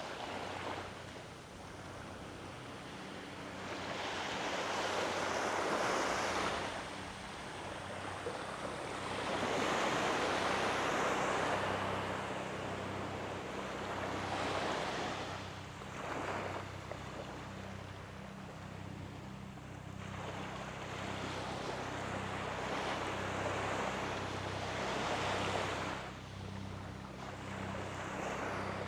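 Small waves washing onto the beach, the wash rising and falling every few seconds. Under it runs a faint low hum that pulses steadily.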